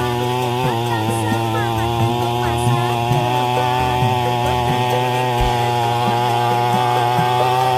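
Small brush cutter engine fitted with a tilling (hoe) attachment, running steadily at high speed, its pitch wavering slightly under load.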